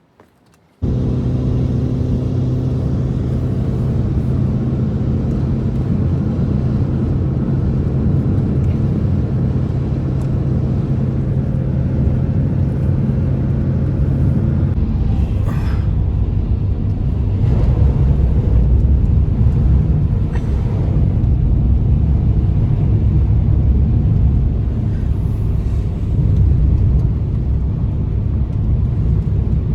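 A loud engine running with a steady low hum, starting abruptly about a second in; about halfway through the even hum gives way to a rougher, uneven rumble.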